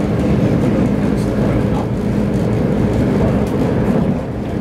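Steady running rumble inside an ex-SL X10 electric multiple unit under way, with a faint steady hum under the rumble.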